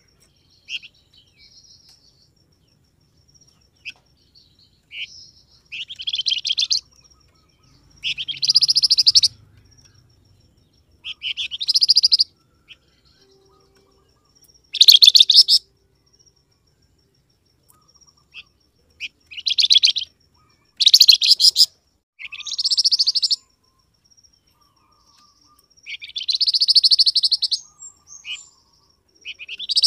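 Songbird known in the Indonesian bird-keeping hobby as 'flamboyan', heard on a call recording of the kind played to make other birds answer. It sings about ten short, high, rapidly trilled phrases, each about a second long, with pauses of one to three seconds between them.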